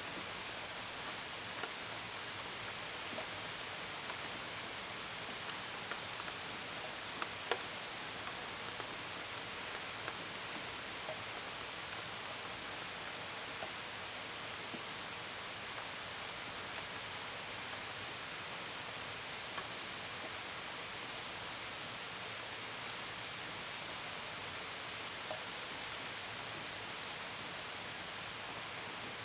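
Steady gentle rain with scattered drops tapping close by, one sharper drop about seven and a half seconds in. Faint cricket chirps repeat about once a second behind the rain.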